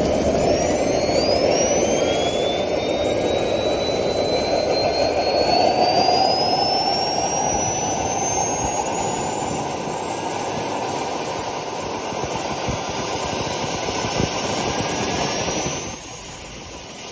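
Turbine helicopter engine spooling up during start: a rushing turbine noise with a high whine that climbs steadily in pitch. The level drops suddenly near the end.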